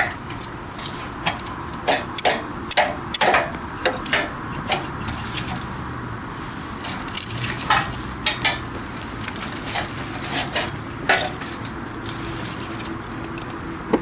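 Wood campfire crackling, with sharp irregular pops that come thickest a few seconds in, over a steady low noise of the burning fire.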